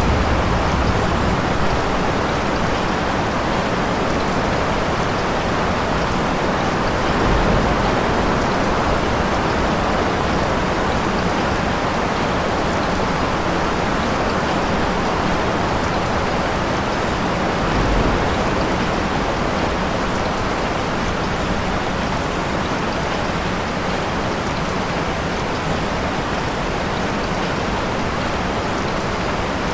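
Steady rain falling outside, an even hiss, with a low rumble of distant thunder swelling briefly about a quarter of the way in and again past the middle.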